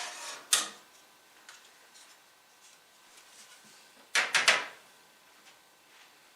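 Hardware being handled during work on a desktop computer: two short bursts of clattering clicks, one at the start and a louder one about four seconds in.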